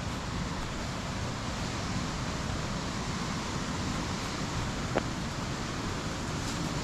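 Steady rushing of a rain-swollen river and waterfall in the gorge below, with wind buffeting the microphone. A single sharp click about five seconds in.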